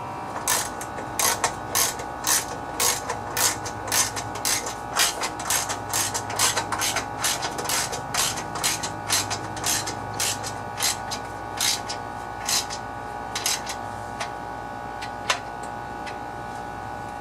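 Hand ratchet wrench clicking in repeated back-strokes, about two sharp clicks a second, stopping near the end.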